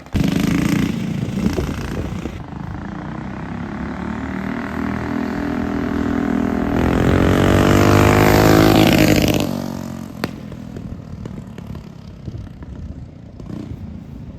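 Minibike's small engine running under throttle, cutting in abruptly. It rises in pitch and loudness about seven seconds in, peaks near nine seconds, then drops away about ten seconds in, like the bike riding close past and on.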